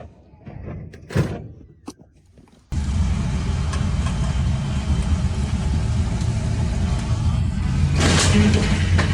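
Scattered knocks and a sharp clank, then an abrupt switch about three seconds in to an off-road 4x4 truck engine running hard with a steady low rumble. A brief loud burst of noise comes near the end.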